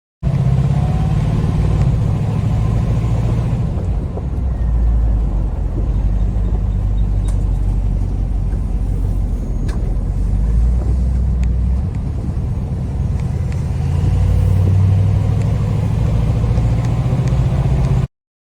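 1948 Dodge B1B panel truck restomod's engine running with a deep, steady sound, its level and pitch shifting a little with throttle.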